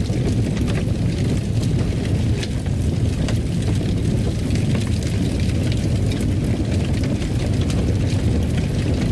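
Wood fire in a fireplace burning with a steady low rumble and frequent small crackles and pops scattered throughout.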